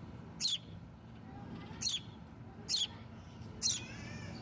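Baby birds' begging calls: four short, high chirps, each sweeping downward in pitch, about a second apart, over a low steady background rumble.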